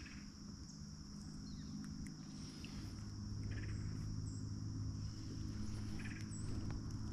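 Insects chirring in one steady high-pitched drone, with a few short bird chirps and a low steady hum underneath that grows stronger about halfway through.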